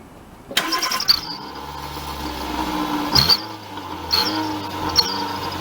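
Car engine starting up abruptly and being blipped with a turbo whistle exhaust tip fitted, a cheap eBay add-on. Over a steady running hum, short high whistle notes come with each rise in level, about once a second.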